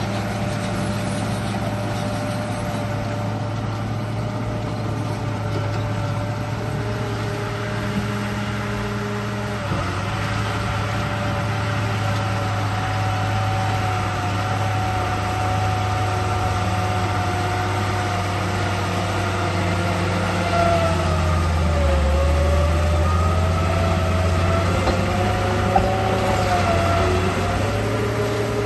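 Radio-controlled bulldozer running: a steady engine-like drone with a motor and gear whine over it. The whine dips and rises in pitch about two-thirds of the way in.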